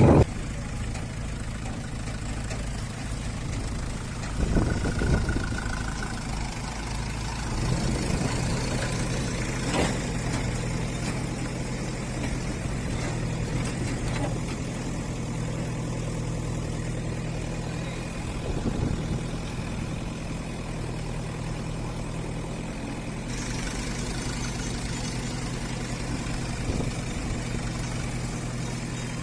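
Diesel engine of heavy farm or earthmoving machinery idling steadily, becoming an even low drone after the first several seconds.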